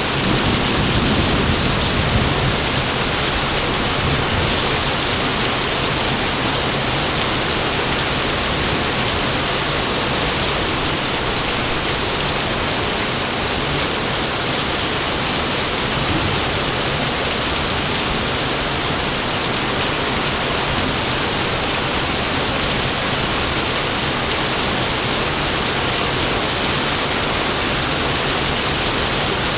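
Heavy rain falling in a steady downpour, with a low thunder rumble dying away in the first second or two.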